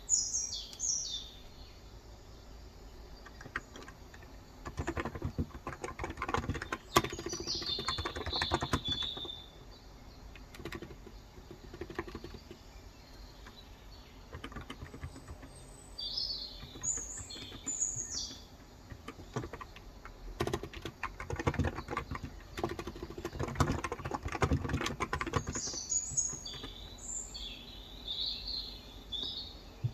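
Typing on a Cox Endeavour electrostatic capacitive keyboard with 35g switches, in several bursts of fast keystrokes with short pauses between them. Birds chirp in short high phrases now and then through the typing.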